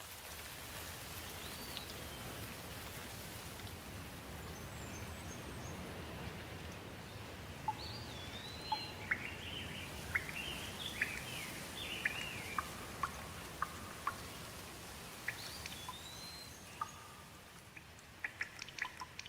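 Steady rain with songbirds calling over it: a few upslurred whistles, then a run of quick chirps and slurred notes in the middle. Near the end the rain thins and sharp drips start.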